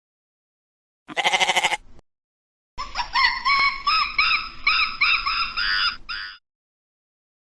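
A single short, quavering sheep bleat, then a run of about a dozen high, arching squeaky calls, about three a second, lasting some three and a half seconds.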